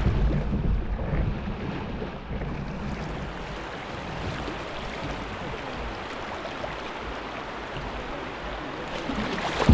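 Wind buffeting the microphone over moving water, with heavy low gusts about at the start and again near the end and a steady rushing hiss in between.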